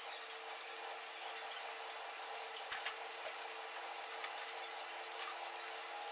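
Faint steady hum and hiss, with two light clicks about three seconds in.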